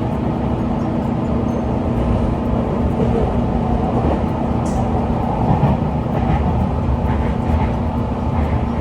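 An electric train running on rails: a steady rumble with a steady low hum.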